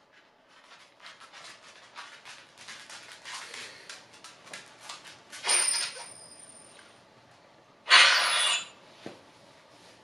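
Wet, open-mouthed chewing by a toothless eater, a rapid run of small mouth clicks and smacks. Then a metal spoon scrapes loudly against the bowl twice as it scoops up food, about two and a half seconds apart, the second scrape the louder.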